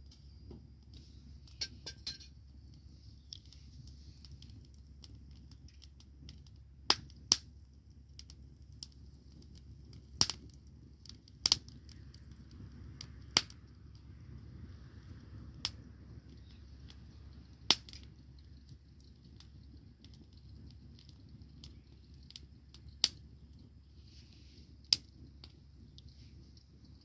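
Wood bonfire crackling: scattered sharp pops and snaps at irregular intervals over a low steady rumble.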